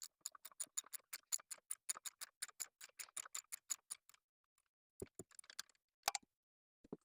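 Socket ratchet clicking in quick, even strokes, about seven clicks a second, as a bolt is turned out on the truck's starter-cable bracket. The clicking stops a little after four seconds, followed by a few separate knocks of tool or metal.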